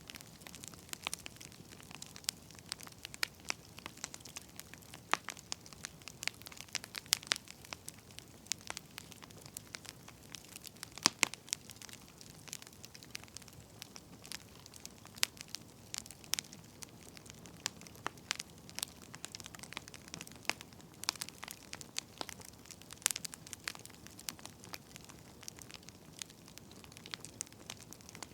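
Wood fire crackling, with irregular sharp pops and snaps over a soft, steady hiss.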